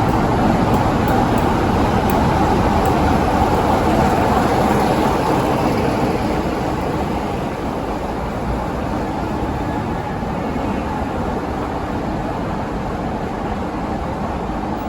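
Class 45 'Peak' diesel locomotive, with its Sulzer twelve-cylinder engine, running past with its train of coaches at arrival speed. The sound is steady and eases a little about six seconds in as the locomotive moves on and the coaches roll by.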